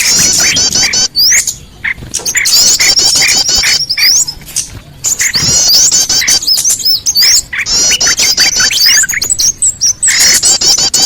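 Small-bird lure call recording: a dense chorus of small birds' rapid, high chirps and twitters over a repeated lower note, breaking off briefly twice before picking up again.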